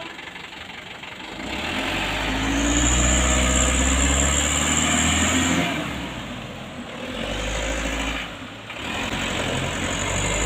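Vehicle engine revving hard under load in three surges, as a tow strains to pull a bogged, stone-laden truck free.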